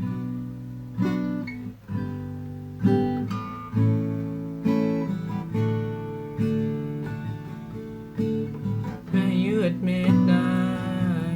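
Acoustic guitar strumming chords at a slow, steady pace, about one strum a second, as a song's intro. A wavering voice line comes in about nine seconds in.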